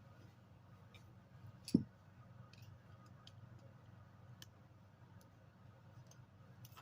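Faint scattered clicks of tools and metal motor parts being handled, with one sharp knock about two seconds in.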